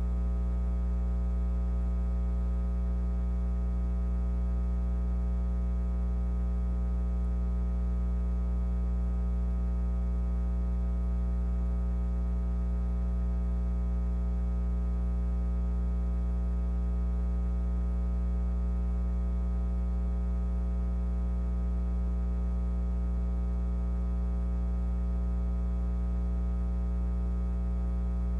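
Steady electrical mains hum with a buzzy stack of overtones, unchanging in pitch and level.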